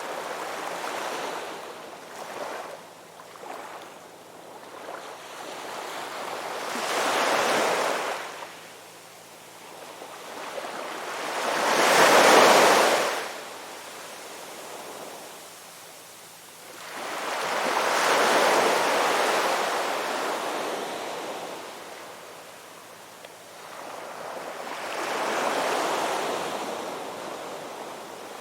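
Ocean waves breaking and washing on a shore, five swells in turn, the one about twelve seconds in the loudest.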